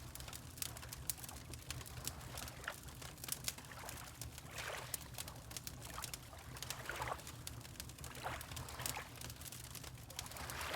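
Fireplace wood fire crackling with many sharp pops, over water lapping in soft splashes every couple of seconds, with a steady low rumble underneath.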